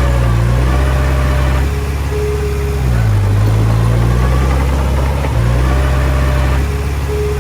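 Komatsu D20P bulldozer's diesel engine running under changing load. Its note drops and rises again twice, about five seconds apart, with a short steady whine during each dip.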